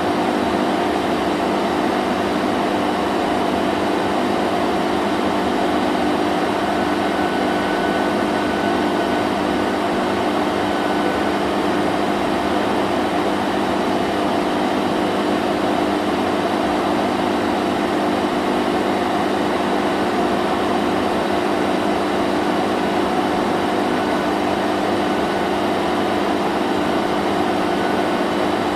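Vacuum cleaner running steadily, a constant motor hum with a few steady tones over an even rush of air, no change in speed.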